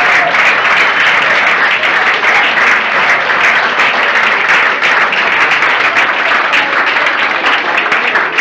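Sustained applause from a crowd of parents and children, dense and steady, clapping for an award winner.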